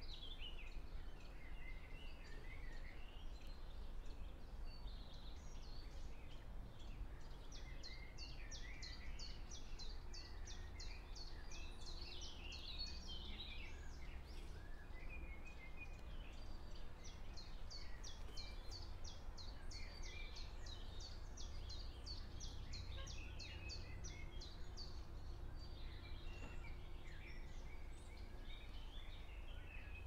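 Wild songbirds singing and calling, with many short high chirps. Twice a bird repeats a fast, even series of high notes for several seconds. A steady low background rumble runs underneath.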